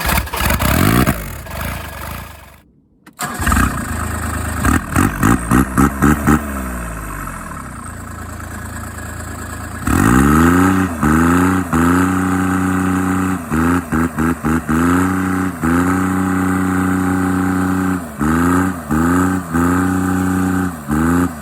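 Bobcat UTV's turbo diesel engine: after a short break about three seconds in, it is blipped in quick revs, drops back to idle, then about ten seconds in climbs in pitch and is held at high revs with repeated brief throttle lifts.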